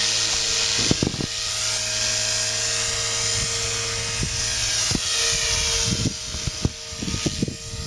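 Electric model helicopter running: a steady whine of its electric motor with the hiss of the rotor. It gets somewhat quieter about six seconds in, with scattered low thumps.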